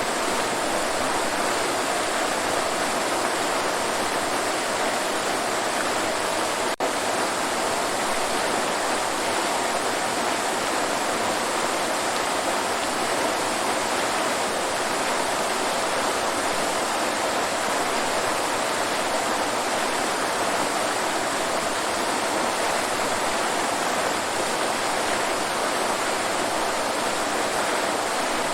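Waterfall: a steady, even rush of falling water, with a single brief click and dropout about seven seconds in.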